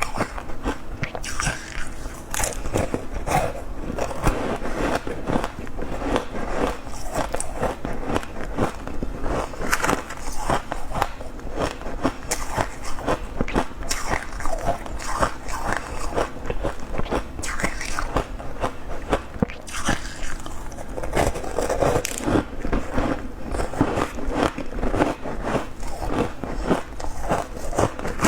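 A person biting and chewing crunchy refrozen shaved ice, with rapid crunches one after another throughout.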